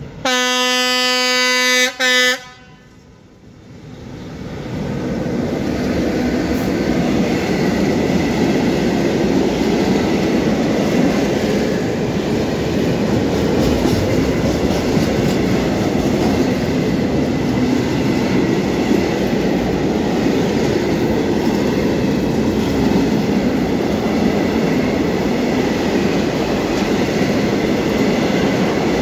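Škoda class 183 electric locomotive sounds its horn in one long blast, broken briefly just before it ends, about two seconds long. After a short lull, a freight train of high-sided open wagons rolls past close by, a loud steady rolling noise that builds over a couple of seconds and then holds.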